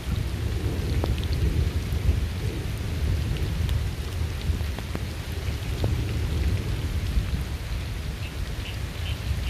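Steady heavy rain with a continuous low rumble of thunder underneath and scattered individual drops striking a surface.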